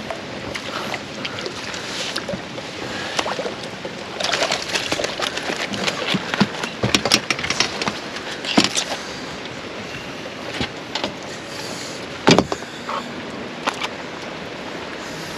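Steady rain hiss with scattered irregular clicks and knocks from handling in a small boat, densest in the middle, and one sharp loud knock about twelve seconds in.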